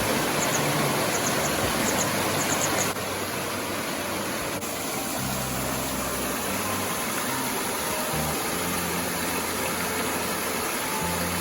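Steady rushing roar of a waterfall, dropping slightly in level about three seconds in, with faint low music notes underneath.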